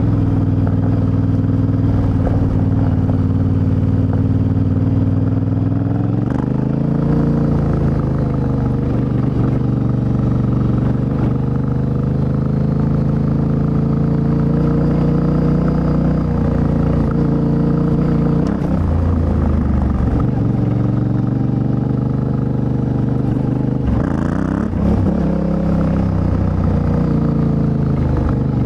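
Yamaha Ténéré 700's CP2 689 cc parallel-twin engine running under way through an Akrapovic exhaust. The engine note holds steady, then rises and falls several times as the throttle opens and closes.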